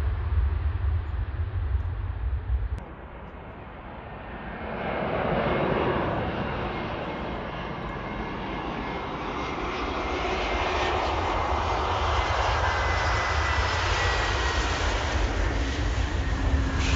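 A low rumble cuts off abruptly about three seconds in. Then jet airliner engine noise builds from about four seconds in and stays loud, with a faint high whine.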